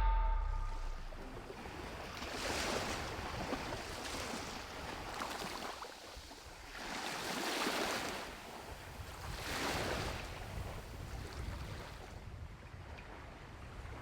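Sea waves washing onto a beach, the surf swelling and falling back in about three slow surges.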